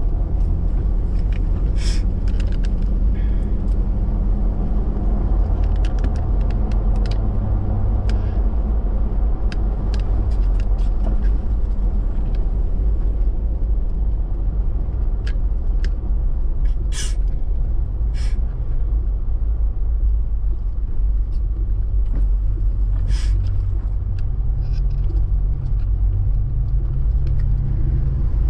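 Toyota Tacoma pickup driving on a slick, snow-covered road, heard from inside the cab: a steady low drone of engine and tyres. A scattering of short, sharp clicks sounds throughout, the loudest about 2, 17, 18 and 23 seconds in.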